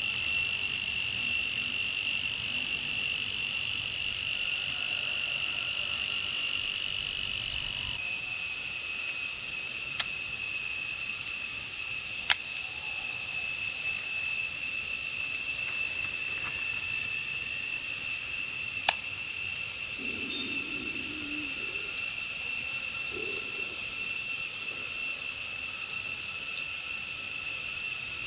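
Insects chirring steadily in a high, continuous drone, with three sharp knocks or taps spread apart and a brief lower sound about two-thirds of the way in.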